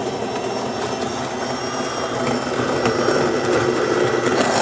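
The built-in burr grinder of a DeLonghi Magnifica XS espresso machine, fitted with a new motor and burrs, grinding beans for a shot. A steady motor whine runs over the grinding noise and grows a little louder about three seconds in.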